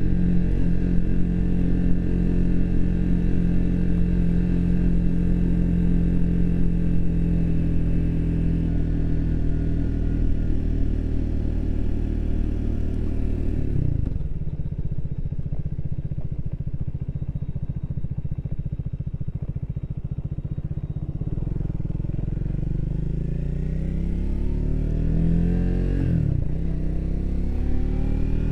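Triumph Speed 400's single-cylinder engine running under way: steady cruising revs for the first half, then the revs drop suddenly about halfway and it runs low and steady for several seconds. Near the end it accelerates with rising revs, shifts up once, and rises again.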